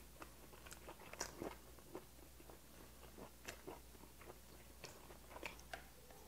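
Faint, close-miked chewing of a mouthful of boiled whelk meat: soft mouth clicks and smacks, scattered and irregular.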